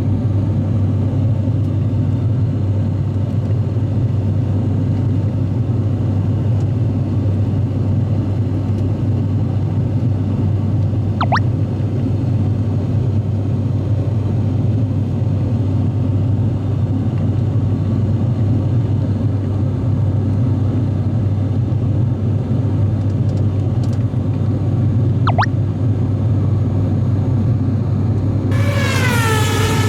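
Steady, loud cabin drone of an ATR 42-600 turboprop airliner climbing out after takeoff, heard from inside the passenger cabin. Near the end a pitched tone sounds, sliding down and then holding.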